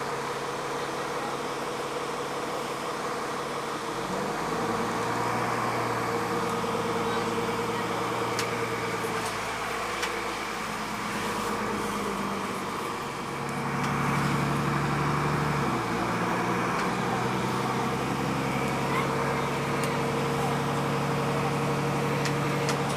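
A city bus's diesel engine running at low speed, a steady hum of engine tones. It shifts in pitch and grows louder about four seconds in, and again at about thirteen seconds as it pulls harder.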